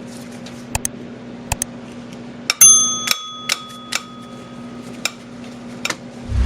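Metal tool work on an engine mount's through bolt with a 17 mm socket and breaker bar: scattered light clicks, then a loud sharp metallic crack a little over halfway through that rings on for a couple of seconds, typical of a tight bolt breaking loose, followed by more light clicks.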